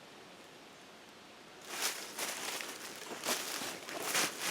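Near-quiet at first, then irregular crackling and rustling from about a second and a half in, like dry brush or debris being disturbed.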